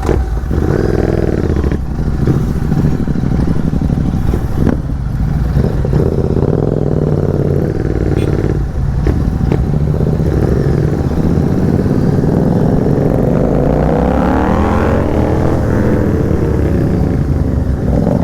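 Royal Enfield 650 parallel-twin motorcycle engine running through an aftermarket exhaust, loud, with short throttle blips early on and then a long pull where the revs climb steadily about two-thirds of the way in before levelling off.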